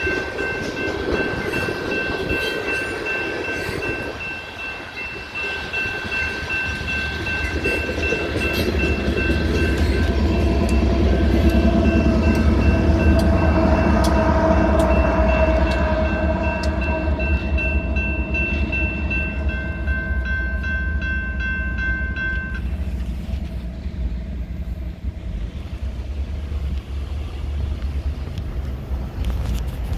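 BNSF freight train's hopper cars rolling through a grade crossing while the crossing bell rings steadily. About halfway a diesel locomotive passes, its engine rumble loudest for several seconds. The bell stops suddenly about three-quarters of the way in as the crossing gates lift.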